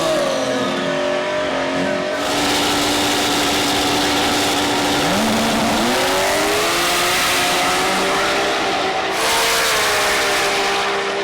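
Drag race car engine running at high revs, its note holding steady and then stepping up in pitch about five to six seconds in, with a loud rushing hiss that comes in about two seconds in.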